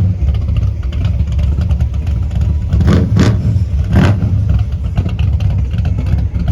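Car engine revving with a heavy low exhaust rumble, with a few sharp surges about three to four seconds in.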